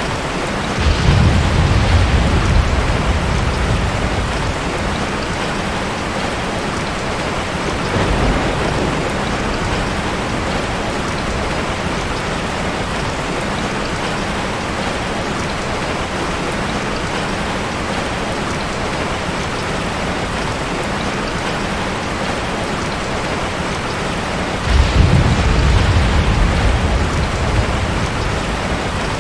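Ocean surf: a steady wash of water, with a heavy wave breaking about a second in, a smaller one around eight seconds, and another heavy break near the end.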